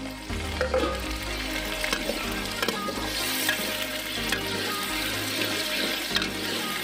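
Onion, tomatoes and green chillies frying in hot oil in an aluminium pot, sizzling steadily while a metal spatula stirs and scrapes against the pot with scattered clicks. Background music plays underneath.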